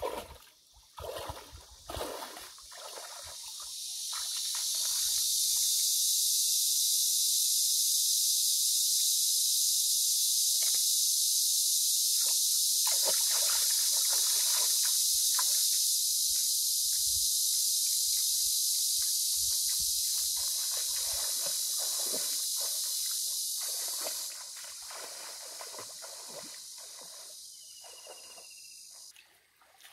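Food frying in a hot pan over the campfire, a steady high sizzling hiss that builds up over a couple of seconds near the start and drops off sharply about 24 seconds in. Scattered knocks and scrapes from utensils run through it.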